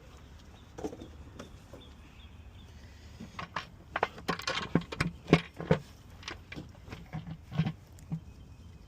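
Parts being handled in an engine bay: scattered clicks and knocks of hard parts, sparse at first, then a quick busy run of them through the middle.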